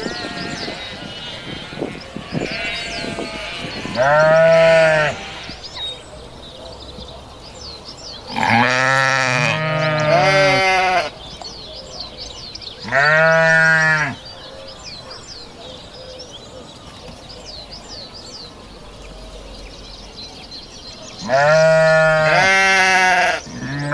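Sheep bleating: several loud, quavering bleats, some overlapping one another, with gaps of a few seconds between them.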